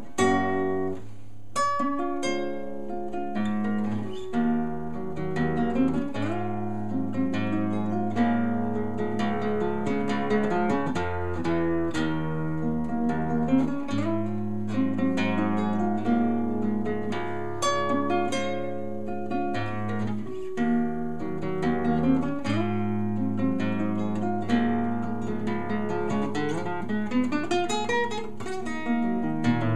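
Acoustic guitar music: a run of plucked notes over low bass notes, each note struck sharply and fading.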